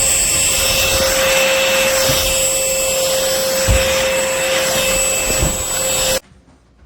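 Trucozie cordless stick vacuum running steadily with a constant high whine, with a few low knocks along the way. The sound cuts off suddenly near the end.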